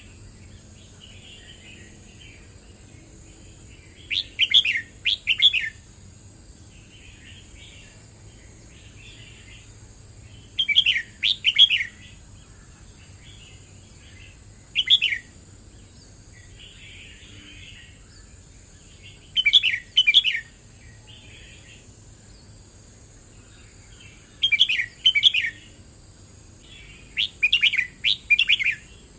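Red-whiskered bulbul singing: short, loud warbled phrases repeated about every four to five seconds, with softer, quieter notes between them.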